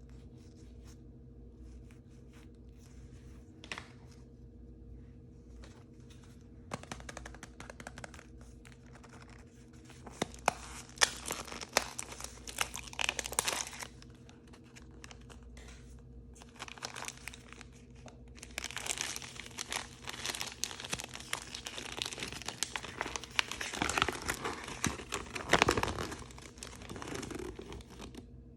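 Plastic wrapping of toy blind bags crinkling and tearing as it is opened by hand: only light handling and a few clicks at first, then crinkling from about seven seconds in, heaviest around ten to fourteen seconds and through most of the last ten seconds.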